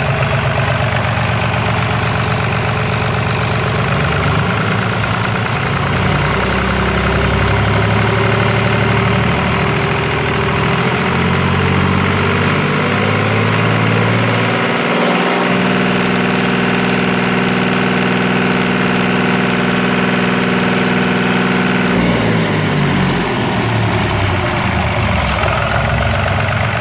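Lister STW3 three-cylinder water-cooled diesel engine running on test. Its speed wavers at first, is raised about halfway and held steady for several seconds, then falls back to a lower speed near the end.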